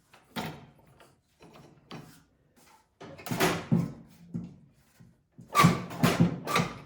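Irregular clunks and scrapes of snowblower parts being handled as a new auger belt is worked onto its pulley, with a few sparse knocks followed by two denser, louder clusters.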